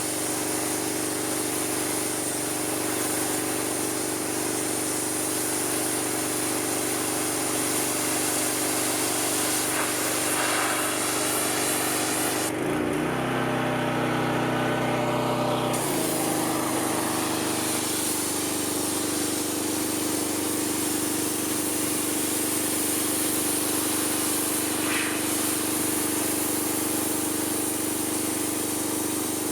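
Pressure washer running steadily, its motor hum under the hiss of the water spray. Midway the spray hiss stops for about three seconds and the motor note changes, then the spray starts again.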